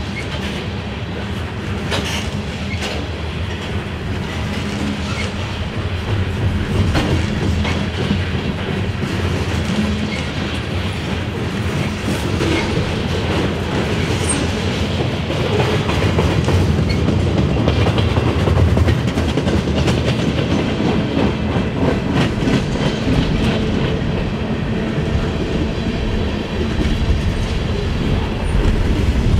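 Freight cars of a passing train rolling by close at hand: a steady rumble of steel wheels on rail, with repeated clicking and clacking as the cars' wheel sets pass over the track.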